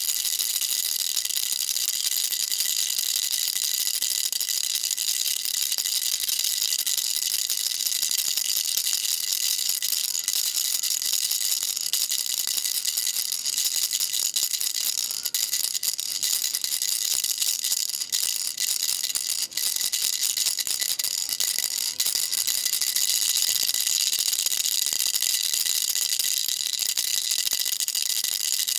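Baby rattle shaken continuously, a steady, dense rattle of small pieces inside it with no pauses.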